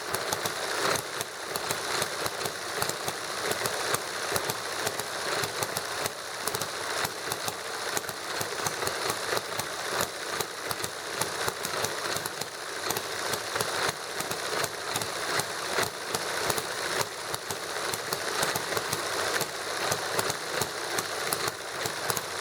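Small hit-and-miss model gasoline engine, fuelled with naphtha lighter fluid, running with a fast light mechanical clatter and louder firing beats at uneven intervals of about a second.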